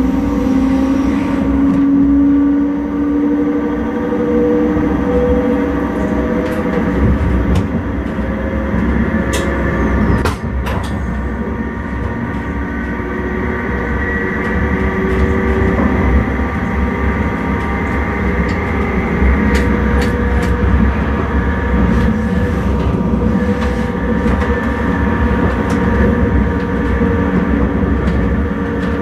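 Electric intercity train running along the line, heard from inside the driver's cab: a steady rumble of wheels on track with a motor whine that climbs slightly in the first few seconds, and a few sharp clicks scattered through.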